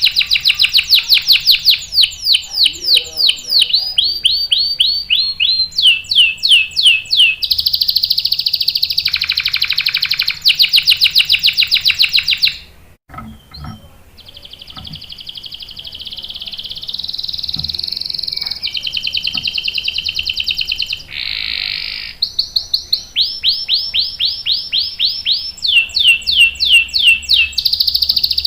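Canary singing long rolling trills: rows of rapidly repeated notes, each row at its own speed and pitch, with one short break about halfway through.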